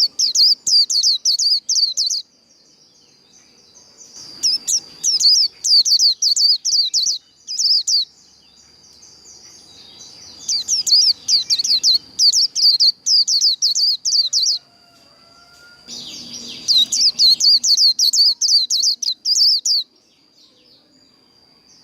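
White-eye (vành khuyên) singing its fast twittering 'líu' song: four bursts of rapid, high, sweeping notes, each a few seconds long, with pauses of about two seconds between them. A thin, steady high tone carries on through the pauses.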